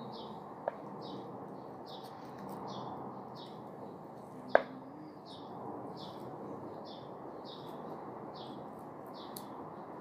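A small bird chirping over and over, about two short chirps a second, over steady background noise. A single sharp knock about four and a half seconds in, with a fainter click before the first second.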